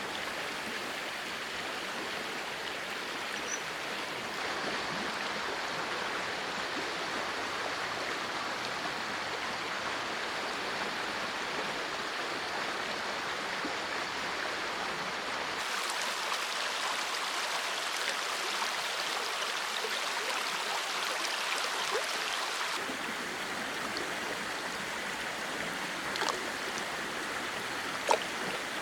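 Heavy rain falling steadily, an even hiss. For several seconds in the middle it sounds brighter and thinner, and a few sharp drip-like ticks come near the end.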